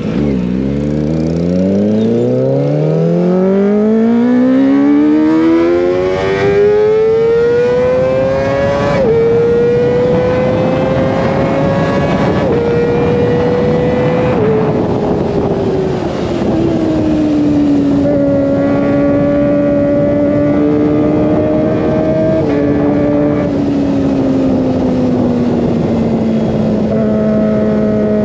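Kawasaki ZX25R's 250 cc inline-four through an Over Racing GP-RS full-system exhaust, revving up from low with the pitch climbing smoothly for about nine seconds. Small dips in pitch follow, then it eases down to a steady cruise and falls again near the end.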